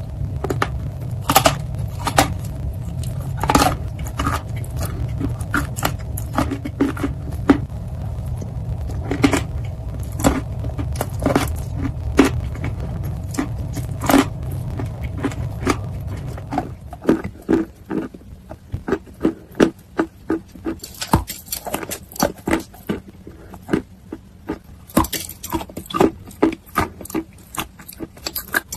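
Close-miked mouth sounds of chewing: wet clicks and smacks, getting faster and crunchier in the second half. A low steady hum sits under the first half and drops out a little past the middle.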